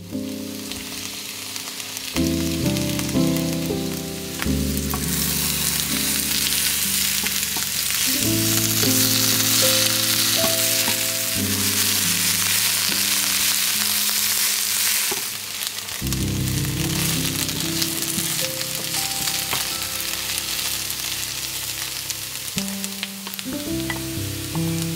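Food frying in hot oil in a pan, a steady sizzle that begins suddenly right at the start and is loudest in the middle. Background music plays underneath.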